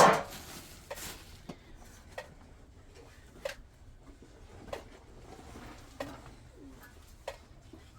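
A loud, sharp knock, followed by scattered lighter knocks and clicks about once a second.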